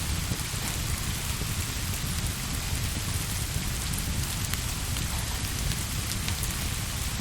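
Steady rain ambience: an even hiss of rain with a deep low rumble underneath and a few sharp clicks in the second half.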